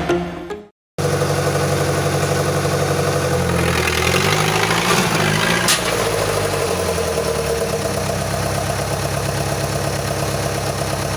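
Tractor engine running at a steady idle with a fast, even pulse. Its speed wavers about four to six seconds in, with a single sharp click near six seconds.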